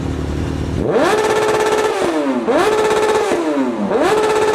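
Motorcycle engine revved hard three times. Each time it climbs quickly, holds at a steady high pitch for about a second, then falls back toward idle.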